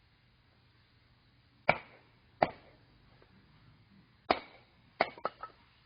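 Axe chopping firewood: four sharp strikes, the first two close together and the next two a couple of seconds later, the last followed by two lighter knocks.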